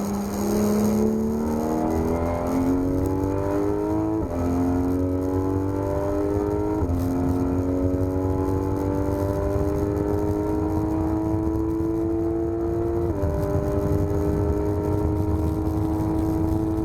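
Porsche 991 GT3 RS's naturally aspirated 4.0-litre flat-six accelerating hard, its pitch climbing steadily through each gear with three quick upshifts: about four seconds in, about seven seconds in, and about thirteen seconds in.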